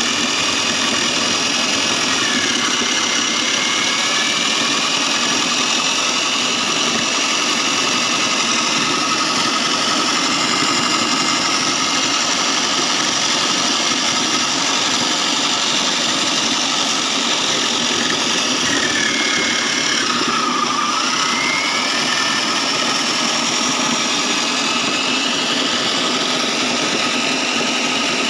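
Foam shredding machine running steadily, a whining pitch that wavers and dips briefly about two-thirds of the way through.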